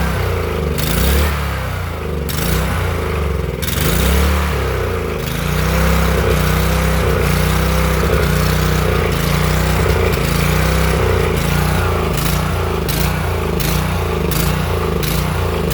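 Small gasoline engine of a pressure washer running continuously, its speed wavering up and down.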